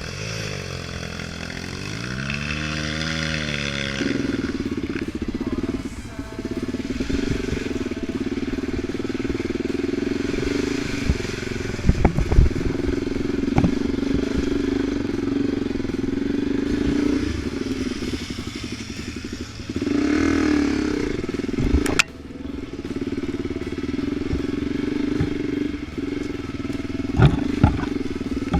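Off-road vehicle engine working hard, its pitch rising and falling for the first few seconds, then running at a steady pitch. Several sharp knocks and clatters come through, and the engine noise drops off suddenly about two-thirds of the way through.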